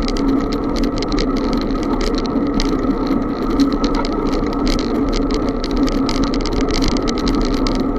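Steady rushing noise of a moving bicycle ride, with quick rattling clicks throughout.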